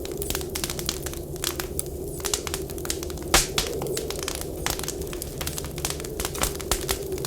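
Wood fire crackling, with dense irregular snaps and one louder pop about three and a half seconds in. Beneath it runs a low, wavering howl of blizzard wind.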